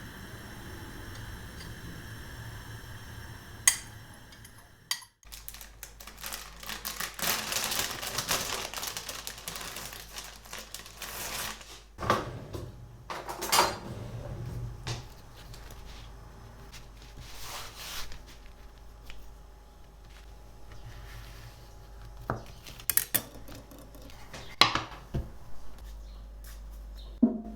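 Dishes and cutlery clinking and knocking, with a stretch of steady rushing noise about six to twelve seconds in and scattered sharp clinks after it.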